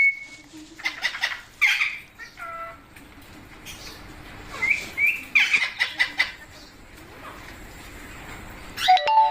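Pet parrot giving short, shrill chirps and calls in separate bursts, some with gliding pitch, with a cluster of calls about halfway and sharp squawks near the end.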